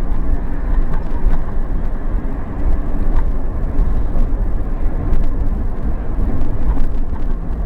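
Car driving slowly, heard from inside: a steady low road and engine rumble with a few light knocks and rattles.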